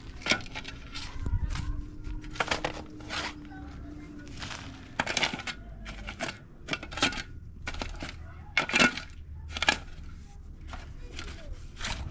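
A run of irregular sharp cracks and rustles, the loudest a little under nine seconds in, with a faint steady hum under the first few seconds.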